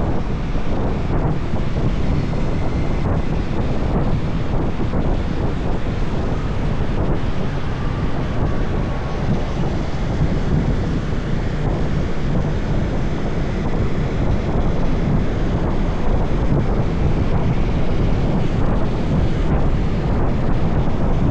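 Wind rushing over the microphone of a moving motorbike, with steady motorbike and road noise beneath.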